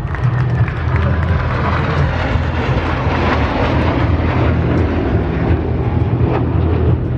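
Jet noise from the Black Eagles' KAI T-50B jets passing during the display: a broad rushing roar that builds to a peak about three seconds in and then eases off.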